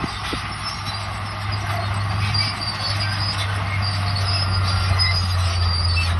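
Crawler bulldozer working: its diesel engine runs steadily while its steel tracks squeal and rattle, with short high squeals scattered throughout.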